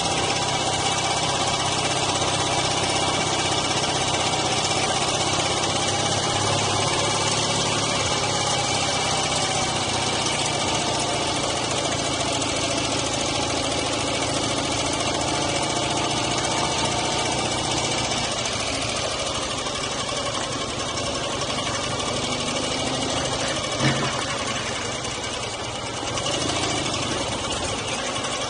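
Dnepr MT-9 sidecar motorcycle's flat-twin engine running under way, with wind and road noise. About two-thirds through, the engine note drops and eases off, a single knock sounds, and the engine picks up again shortly before the end.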